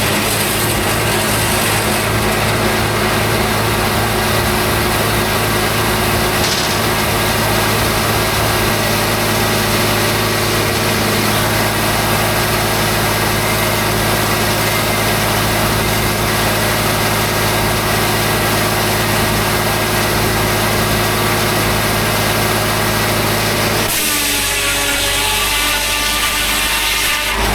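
Homemade circular sawmill running steadily, its engine and blade sawing through a big white pine log. Near the end the sound changes, and a higher ringing tone comes in.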